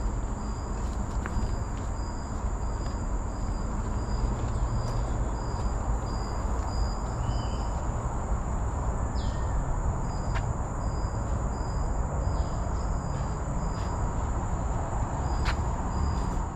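Tropical forest insects calling: one holds a steady high-pitched buzz while another gives a short high chirp repeating about twice a second. A few brief bird calls come through, over a low steady rumble.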